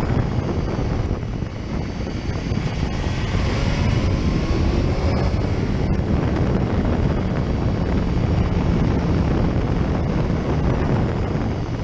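Motorcycle riding at speed, with heavy wind buffeting on the microphone over the engine. The engine note rises faintly a few times.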